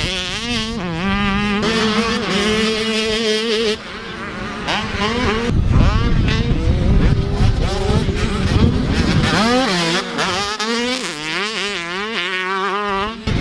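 Motocross dirt bike engines racing, their pitch repeatedly climbing and dropping as the bikes rev and shift, with a short lull about four seconds in.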